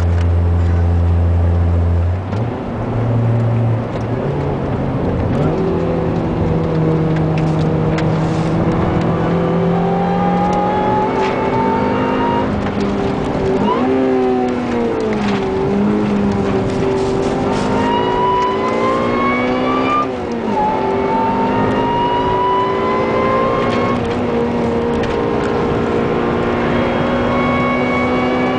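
Supercharged 2006 Honda Civic Si's 2.0-litre four-cylinder, heard from inside the cabin, pulling uphill under light boost. The engine note and the supercharger whine rise slowly through each gear and drop at upshifts about 14 and 20 seconds in and again near the end.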